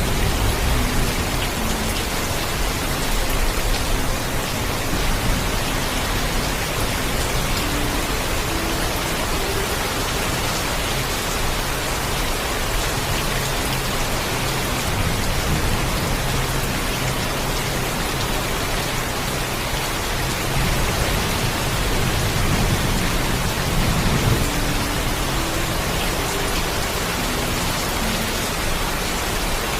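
Heavy rain pouring steadily, with a low thunder rumble swelling about halfway through and more strongly about three-quarters of the way in.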